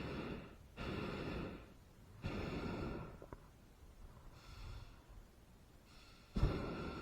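Hot air balloon propane burner firing in short blasts of about a second each, several in a row, with the last and loudest one starting abruptly near the end.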